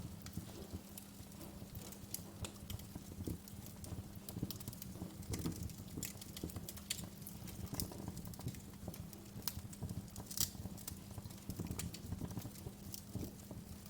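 Wood fire crackling, with irregular sharp pops and snaps over a low rumble of flames.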